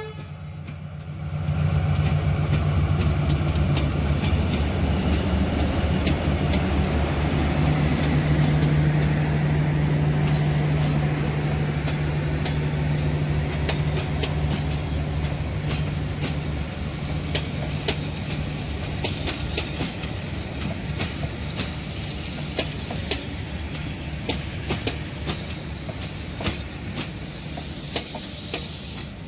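D19E diesel-electric locomotive passing with a steady low engine drone that fades after about half way, while the wheels of the train behind it click repeatedly over rail joints.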